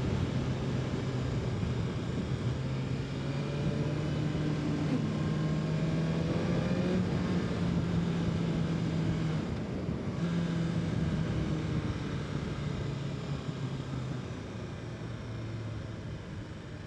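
BMW S1000RR inline-four engine running under way, with a steady engine note that climbs slightly, breaks off briefly about ten seconds in, and falls away as the bike eases off near the end, over wind and road noise.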